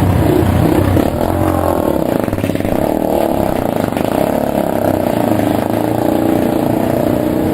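Motorcycle engine running, its pitch shifting a little but staying fairly steady.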